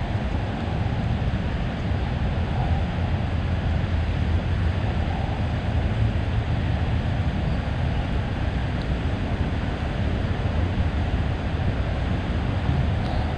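Steady city street ambience: a continuous low rumble of traffic with a hiss over it and no distinct events.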